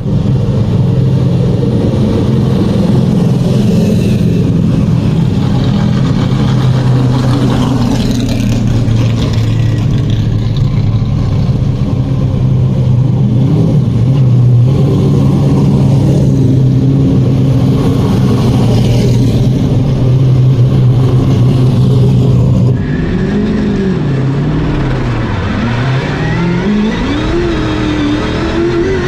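V8 engine of a 1969 Chevrolet Camaro race car, heard on board at racing speed: a steady, loud engine note under load. About 23 seconds in the sound changes abruptly and grows quieter, and the engine pitch then dips and climbs several times as the revs fall and rise.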